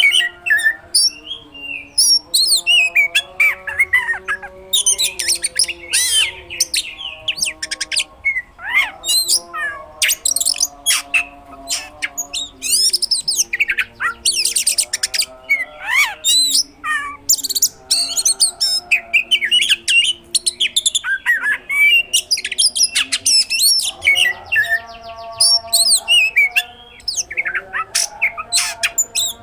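Oriental magpie-robin singing a loud, unbroken, varied song of rapid chirps, sweeping whistles and fast trilled bursts, filled with mimicked phrases.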